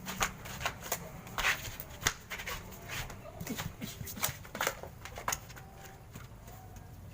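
People scuffling: irregular knocks, scuffs and shuffling footsteps, busiest in the first five seconds and thinning out after.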